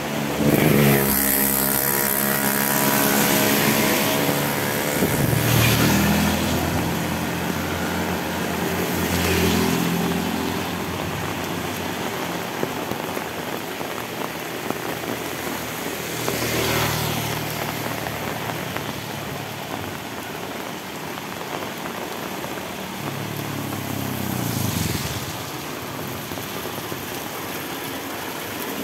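Heavy rain falling steadily, with vehicles passing on the wet road: a car goes by in the first few seconds, its engine note falling as it passes, and more vehicles pass with tyre hiss about ten, seventeen and twenty-five seconds in.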